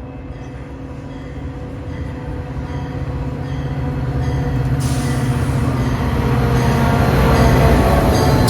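Commuter train approaching and passing close by: a rumble of locomotive and wheels that grows steadily louder, with a hiss of wheels on rail joining about five seconds in. A grade-crossing bell rings about twice a second throughout.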